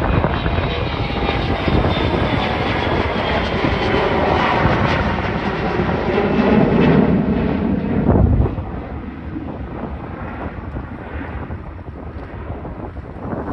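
Mitsubishi CRJ-700ER regional jet's twin General Electric CF34 turbofans at takeoff power, a jet roar with a whine falling in pitch as the aircraft passes. About eight seconds in the sound drops off sharply to a fainter rumble.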